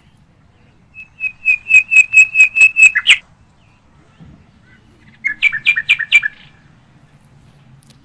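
A bird calling loudly in two runs of quick repeated notes. The first run has about ten notes over two seconds and ends on a falling note; after a pause of about two seconds a shorter run of about five notes follows.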